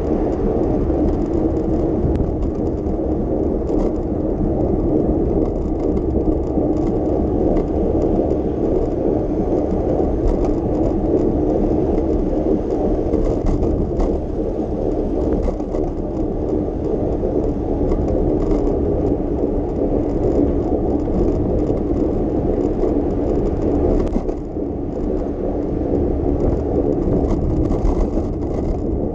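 Steady rolling noise of a bicycle ride on city streets: tyres on the pavement and air rushing past, with scattered small clicks and rattles. It stays loud throughout and dips briefly about 24 seconds in.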